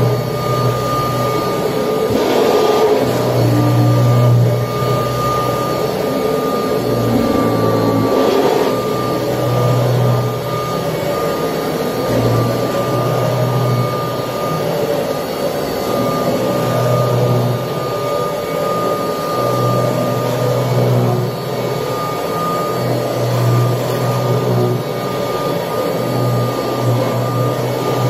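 1979 Kirby Tradition upright vacuum cleaner running while vacuuming: a steady high whine over a lower hum that comes and goes every second or two.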